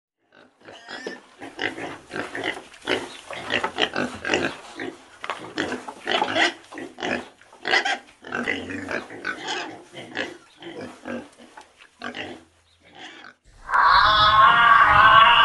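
Wild boars and a piglet grunting in a dense run of short, irregular calls. About thirteen seconds in, a louder, wavering pitched call takes over.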